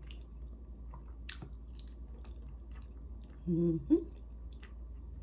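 Close-miked chewing and mouth sounds of a person eating soft food, with scattered small wet clicks, one sharper about a second in. About three and a half seconds in, a short hummed "mm" while chewing.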